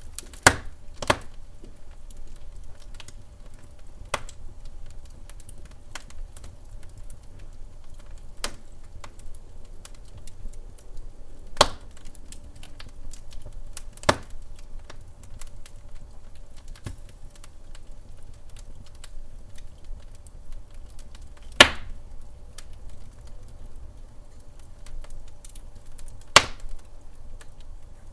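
Wood fire crackling in a fireplace: sharp, irregular pops every few seconds over a low steady rumble.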